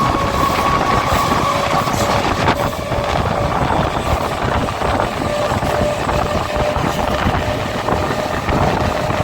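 MEMU electric train running, heard from on board: steady rumble of wheels on track, with a thin steady whine that drops to a lower pitch about a second and a half in, and a few sharp clicks.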